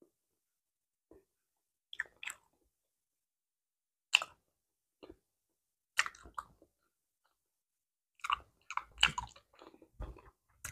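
Close-miked chewing of a mouthful of banana, heard as scattered short clicks and crackles, with a banana being peeled by hand. The bursts come every couple of seconds and grow denser near the end.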